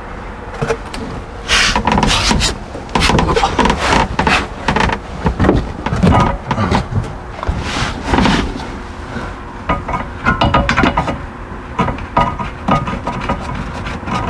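Irregular knocks, clicks and rubbing of hands handling plastic water-line fittings and hoses at an RV water heater's connection, with a few louder scraping bumps.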